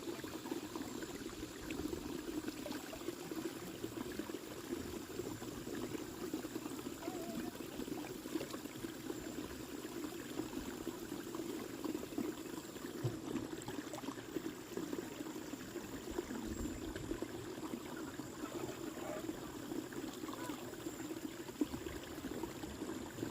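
Water flowing steadily, a continuous stream or trickle with no break.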